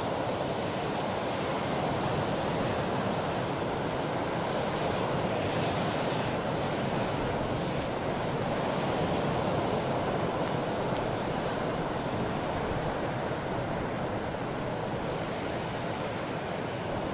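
Atlantic surf breaking and washing on a beach, a steady wash of noise that swells and eases a few times. One sharp click about two-thirds of the way through.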